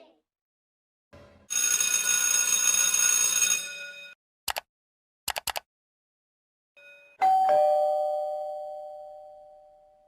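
A string of separate sound effects. First a harsh steady tone lasting about two seconds, then a few short clicks, then a two-note doorbell chime, ding-dong, falling from the higher note to the lower and ringing out slowly.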